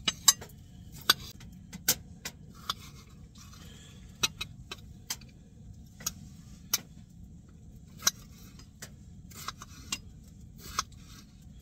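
Kitchen knife dicing potatoes on a plate: irregular sharp knocks of the blade striking the plate, about one every half second to a second, over a low steady rumble.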